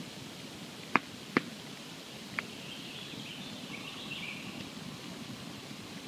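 Wood campfire burning with a steady low crackle. Three sharp pops of burning wood stand out, two close together about a second in and a smaller one a second later.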